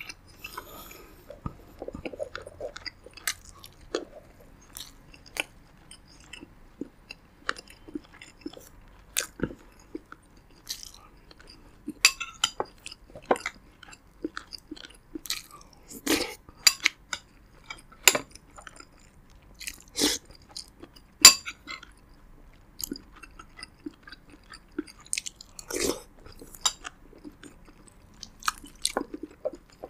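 Close-miked eating of roasted pigeon with rice: wet chewing with irregular crisp crunches and mouth clicks, loudest and thickest in the middle stretch.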